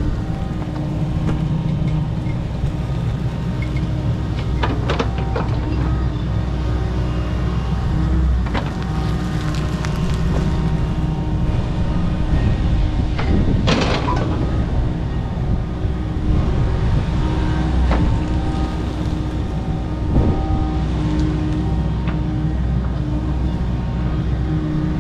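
Kobelco SK85 MSR 8-ton excavator's diesel engine running steadily under load while it clears overgrown brush, with a few sharp cracks and knocks, the loudest about halfway through.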